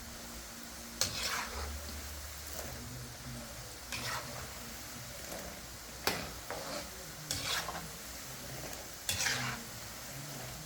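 Chin chin pieces deep-frying in hot oil with a steady sizzle, while a spoon is stirred through the pot in five or six scraping strokes about a second or two apart.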